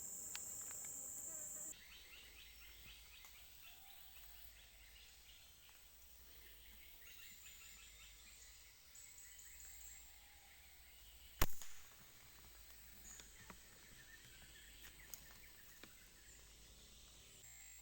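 Quiet tropical ambience: a steady high insect buzz that stops about two seconds in, then faint insect and bird calls. One sharp crack about 11 seconds in is the loudest sound.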